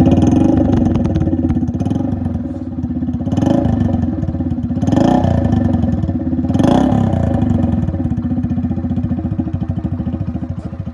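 Motorcycle engine running through an original Yamaha RX100 silencer with its muffler still fitted, blipped up three times and dropping back to a steady run in between.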